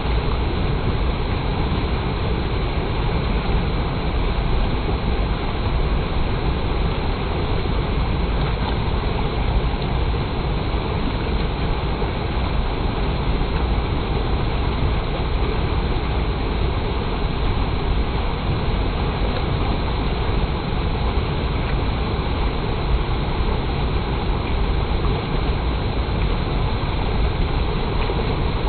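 Clear water flowing steadily in a stream, making an even rushing noise that does not let up.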